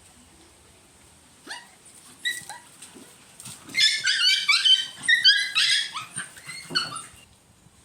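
Puppies crying and yelping: a few short high-pitched yelps, then a rapid run of whining squeals from about four to seven seconds in.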